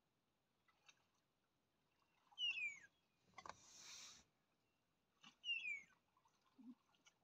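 A bird calling twice, about three seconds apart, each call a quick high whistle falling in pitch. A brief rushing noise comes between the two calls.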